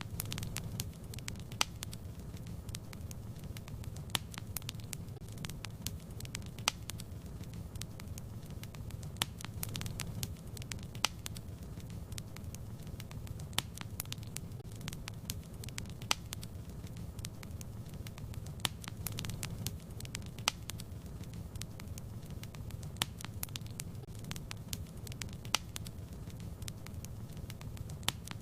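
Fireplace fire crackling: a steady low rumble of flames with frequent sharp pops and crackles at irregular intervals.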